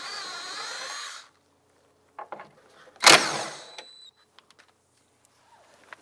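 Power tool with a 10 mm socket spinning nuts off, in two short runs: about a second at the start, then a louder burst about three seconds in that fades out within a second.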